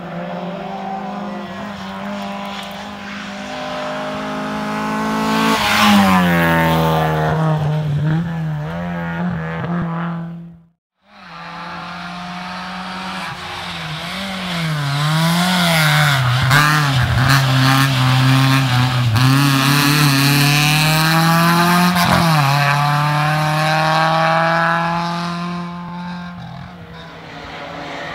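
Rally car engines at full effort on a special stage. The first car holds a steady note, then gets louder and drops sharply in pitch about six seconds in as it brakes and shifts down. After a sudden cut, another run follows: the engine note rises and falls with gear changes and throttle lifts, then fades away near the end.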